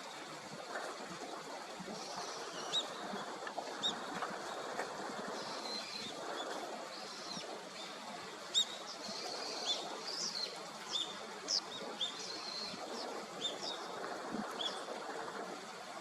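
Short, high-pitched bird calls repeated at irregular intervals over a steady background rush.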